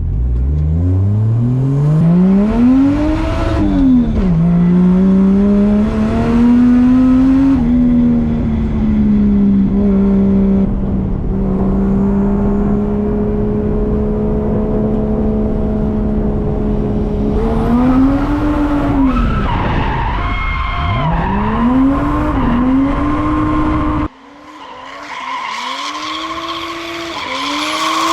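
Drift car's engine revving hard, climbing in pitch and dropping at a gear change, then held at steady revs for several seconds. Then the throttle is worked up and down quickly while the tyres squeal in a drift. Near the end the sound abruptly turns quieter and thinner.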